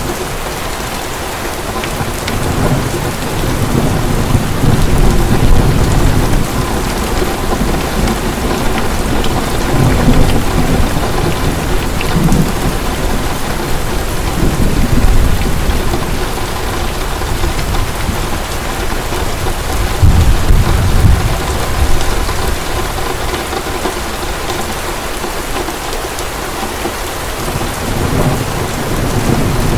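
Heavy rain pouring steadily, with low thunder rumbles swelling and fading several times.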